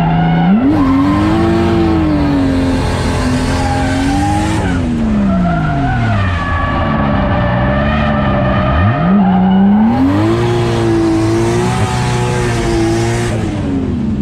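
A 630-horsepower drift car's engine revving hard through two drifts, with the tires squealing and skidding. The revs climb sharply about half a second in and again about nine seconds in, and drop back between the two drifts.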